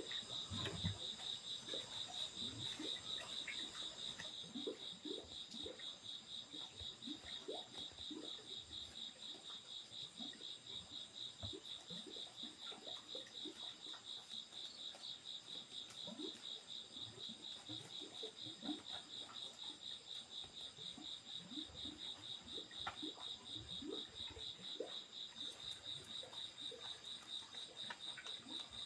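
Insects trilling steadily in a fast, even pulse, with scattered faint short rising chirps lower down.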